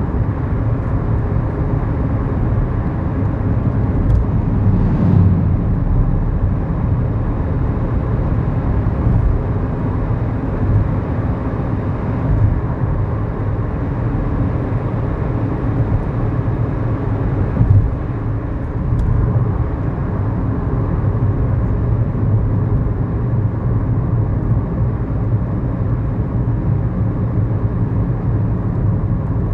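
A 2011 Kia New Morning's 999 cc four-cylinder SOHC petrol engine running while the car is driven, heard inside the cabin as a steady low engine hum mixed with road noise.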